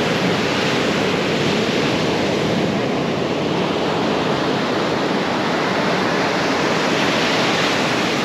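Ocean surf at a beach, a steady rushing wash of waves.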